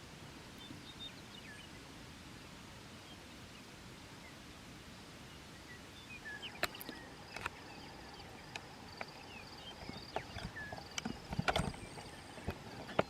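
Quiet open-air ambience with a faint steady hiss of wind and a few faint bird chirps. About six seconds in, footsteps start, irregular and growing louder and more frequent near the end.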